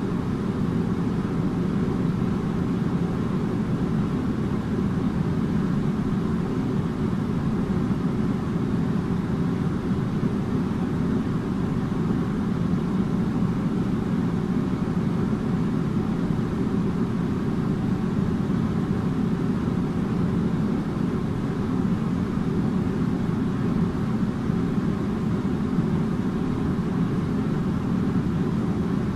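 Air conditioner running steadily: an even, low hum with a rush of air that does not change.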